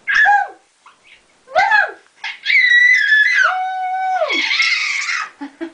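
Baby's high-pitched squeals: two short squeals that fall in pitch, then a long held squeal of about two seconds that drops low at the end, followed by a breathy gasp.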